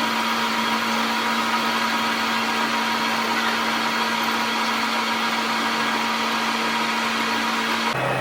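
A workshop machine running steadily: a constant hum under an even whirring hiss. Near the end it cuts suddenly to a lower steady hum.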